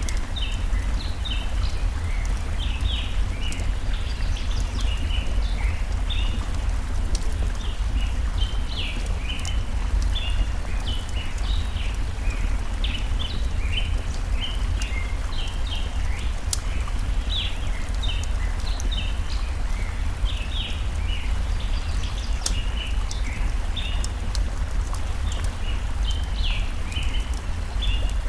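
Steady rush of a forest stream with a deep rumble underneath, overlaid by many short, quick bird chirps and the occasional sharp crackle of a campfire.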